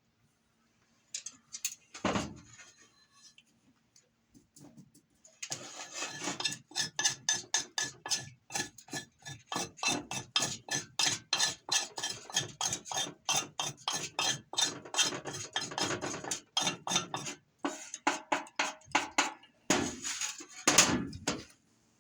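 Knife blade scraping along a piece of fatwood in rapid repeated strokes, about three or four a second, shaving off fine curls for tinder. A knock sounds about two seconds in and a few more near the end.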